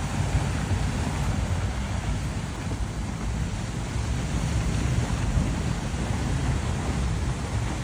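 Fast-moving floodwater rushing, a steady dense noise with a deep rumble underneath and wind buffeting the microphone.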